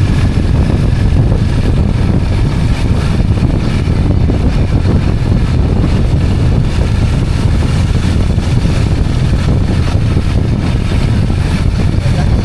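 Two-wheeler ridden at a steady pace: engine running with a constant low rumble of wind on the microphone.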